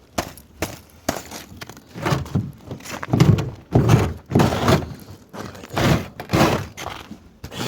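Repeated thuds and knocks, the heaviest about three to four seconds in and again around six seconds in: a car door frozen shut being forced open.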